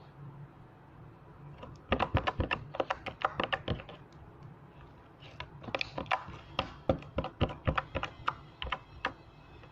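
Glitter slime being squished and poked, making rapid clicking pops in two runs, the first about two seconds in and the second from about five seconds in.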